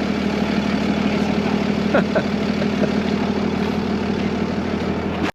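Heavy vehicle engine running steadily with a low, even hum, cutting off abruptly near the end.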